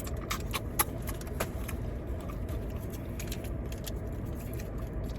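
Fried chicken being handled and eaten: small sharp clicks and crackles, clustered in the first two seconds and again around three seconds in, over a steady low rumble.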